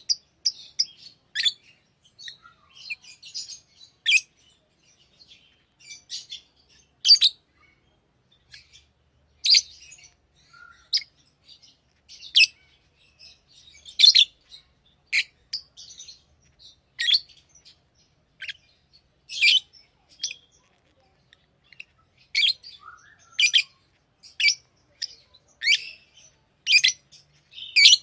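Pet lovebirds chirping: short, shrill high-pitched calls, roughly one every second or so, some coming in quick pairs.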